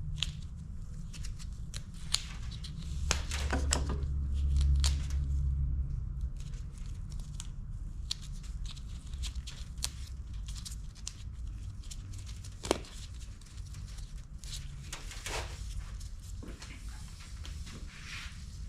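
Hands working automotive wire for a harness: scattered clicks and rustling, with tearing sounds typical of tape being pulled off a roll, and one sharp click about two-thirds of the way through, over a steady low hum.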